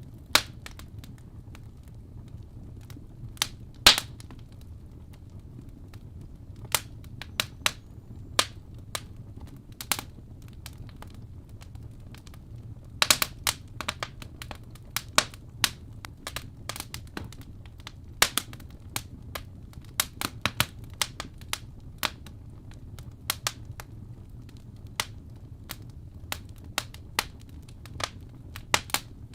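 Wood fire crackling, with irregular sharp pops, a few of them loud, over a low steady rumble.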